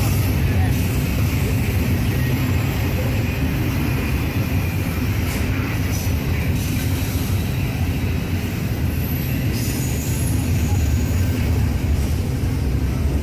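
Freight train of double-stacked intermodal containers rolling past, a steady low rumble of the cars on the rails.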